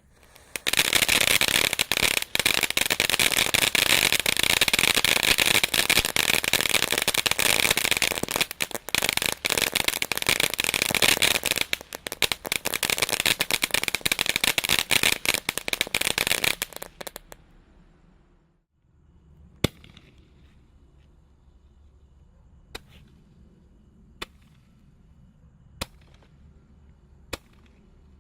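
Garden firework fountain spraying with a dense hissing crackle for about sixteen seconds, which then cuts off. It is followed by single sharp pops about every one and a half seconds.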